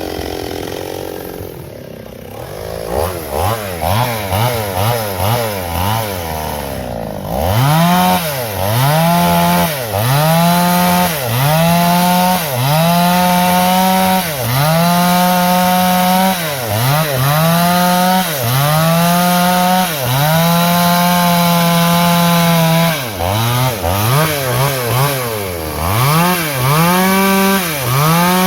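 Two-stroke chainsaw engine blipped in short revs, then held at full speed cutting through a log, its pitch sagging and recovering every second or two as the chain takes load in the wood.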